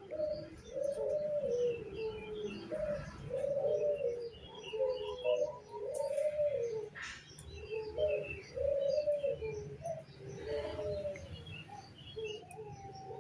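Caged puter doves cooing over and over, their low coos following close on each other and overlapping. Small birds chirp faintly at a higher pitch among the coos.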